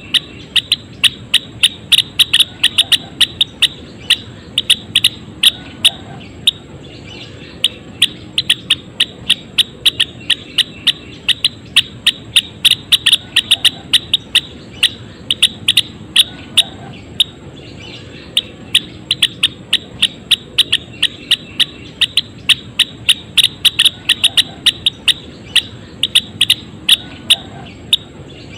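Java sparrow calling: runs of sharp, clicking chip notes, several a second, broken by short pauses.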